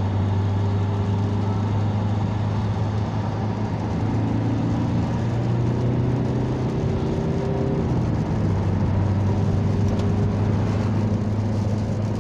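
Ford car's engine heard from inside the cabin, accelerating hard under full throttle in third gear. The engine note climbs, dips about eight seconds in, then climbs again.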